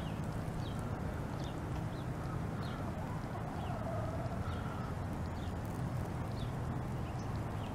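Outdoor ambience: a steady low rumble with a small bird chirping short, high, falling chirps about every two-thirds of a second.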